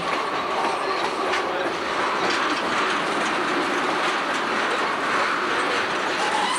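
A freight train of covered hoppers and tank cars rolling past close by, its steel wheels rumbling steadily on the rails and clicking over rail joints.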